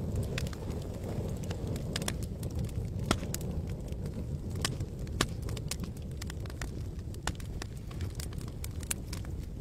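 Campfire burning: wood crackling and popping at an irregular rate, with a couple of sharper pops, over a steady low rumble.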